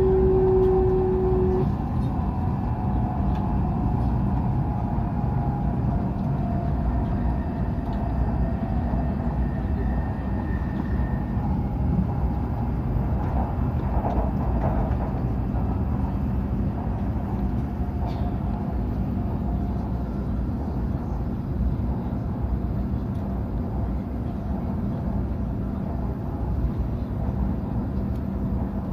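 Hokuriku Shinkansen train running at speed: a steady rumble and rush of running noise. Faint whines slowly fall in pitch over the first several seconds, and a steady tone cuts off about two seconds in.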